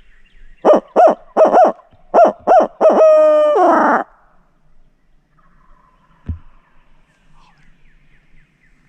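Barred owl hoot, most likely a hunter's owl locator call blown right at the microphone: six short hoots, then one long drawn-out hoot that falls in pitch at its end, the classic "who-cooks-for-you, who-cooks-for-you-all" used to make gobblers shock-gobble. A single dull thump follows a couple of seconds later.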